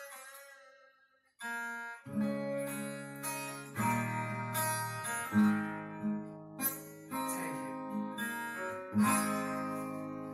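Acoustic guitar strumming chords: a ringing chord dies away, a short break follows, then chords are struck again several times and left to ring.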